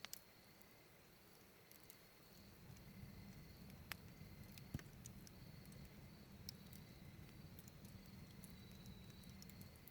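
Firewood burning, crackling faintly with scattered sharp pops. A low rumble comes in about two and a half seconds in and holds until near the end.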